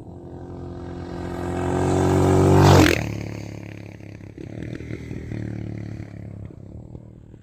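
Honda XR650R dirt bike's big single-cylinder four-stroke engine riding by, growing louder to a peak about three seconds in, then falling away and fading.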